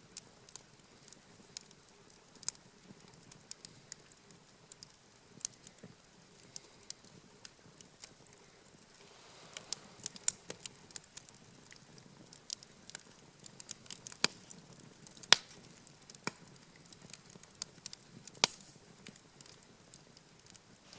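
Wood campfire crackling, with irregular sharp pops and a few louder snaps a little past halfway and near the end.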